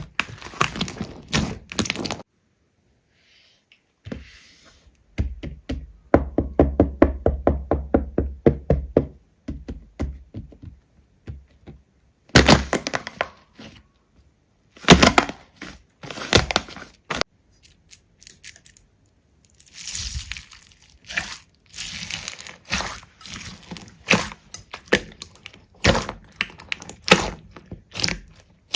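Slime being squeezed and poked by hand: clusters of sharp wet clicks and pops, including a fast even run of pops in the first third, broken by a short silent gap.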